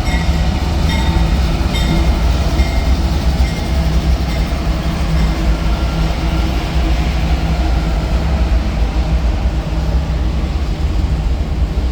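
A train running past close by, with a loud, steady rumble of wheels and engine. A short ringing tone repeats about once a second during the first two seconds, then fades under the rumble.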